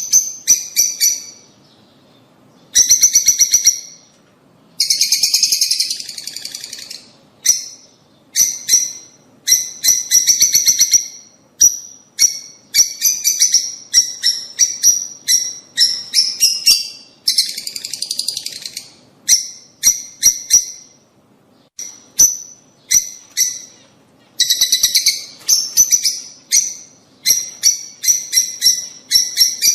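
Lovebirds (rosy-faced and Fischer's) chattering: bursts of rapid, shrill, high-pitched chirps one after another with short gaps between, and a few longer harsh, buzzy stretches.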